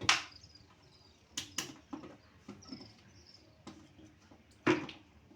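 Liquid antibacterial hand wash being added to a bucket of warm water: a handful of sharp clicks and knocks from the bottle and bucket with faint squeaks, the loudest click near the end.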